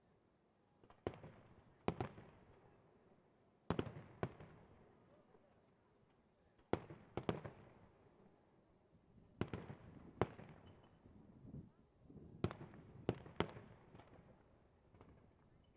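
Aerial firework shells bursting: about a dozen sharp bangs at irregular intervals, often in pairs, each followed by a short echoing tail.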